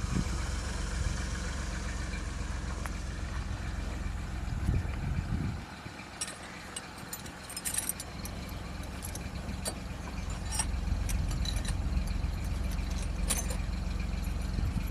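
Car engine running with a steady low hum. It drops quieter about five and a half seconds in and builds again near the end, with scattered clicks and rattles over it.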